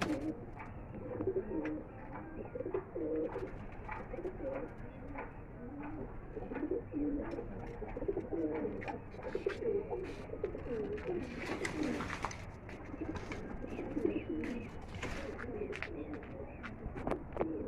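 Domestic pigeons cooing over and over, several birds overlapping, with scattered short clicks.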